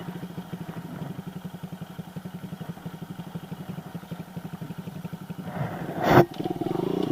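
Kawasaki KLX110 pit bike's small single-cylinder engine idling with a steady, even putter. About six seconds in there is a sharp knock, and the engine then revs up louder.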